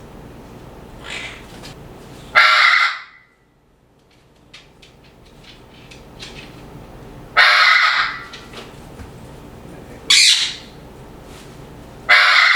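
Pet parrots squawking: four loud, harsh squawks, each under a second long, spaced a few seconds apart, with fainter calls between them.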